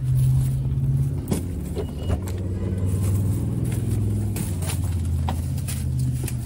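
A motor vehicle engine running close by: a loud, low steady hum that shifts in pitch several times, with a few sharp clicks and knocks over it.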